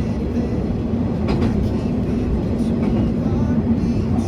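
Tarumi Railway diesel railcar running along the track, with a steady engine drone and rumble and a few sharp clicks of the wheels over the rail joints.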